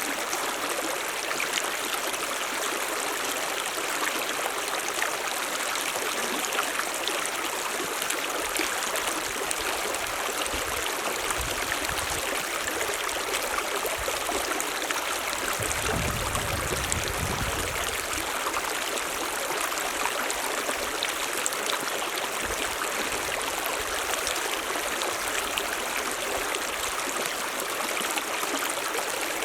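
Mountain stream running over rocks: a steady rushing and splashing of water, with a brief low rumble about halfway through.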